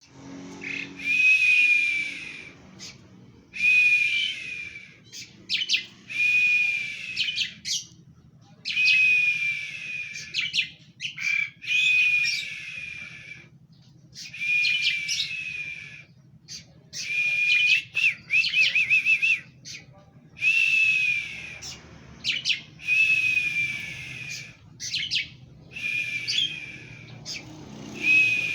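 Oriental magpie-robin (kacer) in full, agitated song: loud phrases about a second long, each a harsh rasp laced with whistled notes, repeated roughly every two seconds with short pauses between.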